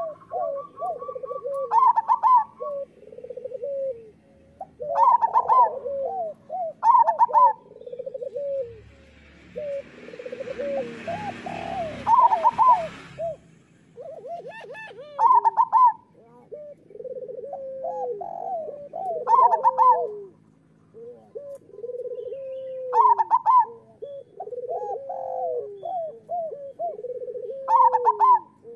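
Zebra doves (local perkutut) cooing in overlapping, repeating phrases. Each phrase is a run of soft rolling low notes, with a louder, higher note coming back every few seconds. A brief rushing hiss sounds under the birds about a third of the way in.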